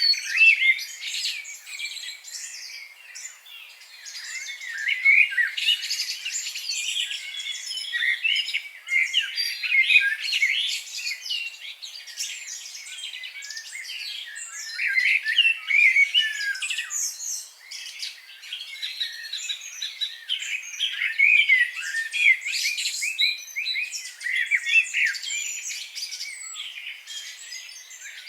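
Several small birds chirping and singing at once: a dense chorus of short, overlapping high chirps and quick trills with no break.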